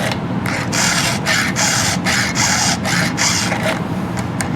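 Round chainsaw file rasping across a chain's cutter teeth in short, even strokes, about two and a half a second, as the chain is sharpened by hand.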